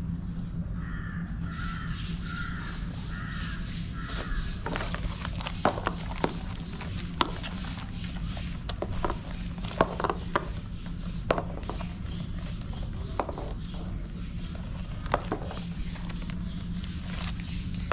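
A bird calls five times in a quick, even series, then irregular sharp clicks and knocks follow, with a steady low hum underneath.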